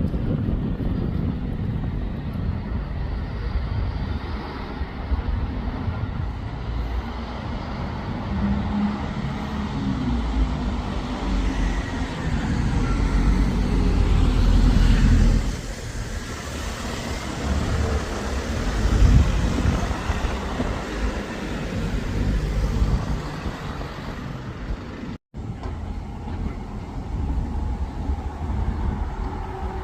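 Road traffic: motor vehicles running past with a low engine rumble that swells and eases. The sound drops out for a split second near the end.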